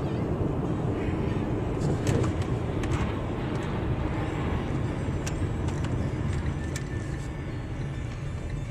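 Steady low rumble of a vehicle on the road, with a few short sharp clicks and knocks, most of them about two to three seconds in.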